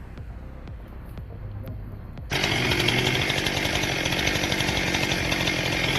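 Chainsaw running steadily at high revs, coming in suddenly a little over two seconds in after a quieter stretch.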